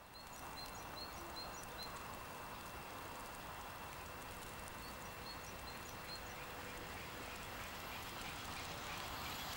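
Faint outdoor ambience with a small bird calling in two runs of short, high, repeated notes: one at the start and one about five seconds in, over a steady background hiss.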